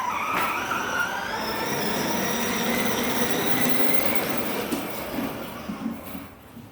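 A child's ride-on toy motocross bike running: a steady whirring and rattling with a faint whine that slowly rises in pitch, dying away near the end.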